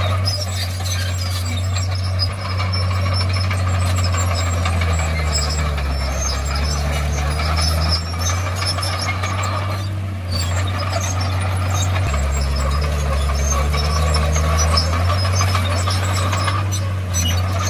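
Komatsu D51PX bulldozer's diesel engine running hard, its note dipping lower twice, about a third and about two-thirds of the way through, with high metallic squeaking and clatter from the steel tracks.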